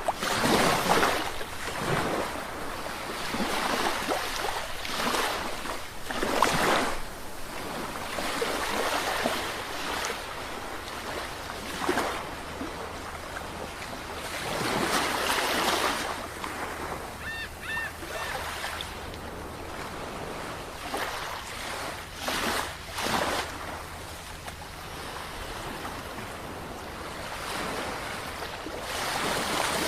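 Sea waves breaking and washing in, a rushing sound that swells and falls every few seconds. About halfway through, a brief high three-note call sounds faintly over the surf.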